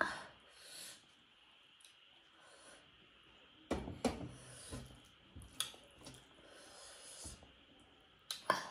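Close-miked eating sounds: chewing and mouth noises with a few sharp smacks or clicks, the loudest near the start, around four seconds in and near the end.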